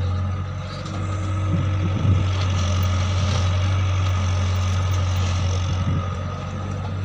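Farm vehicle engine running steadily at a constant speed, with a short knock about two seconds in.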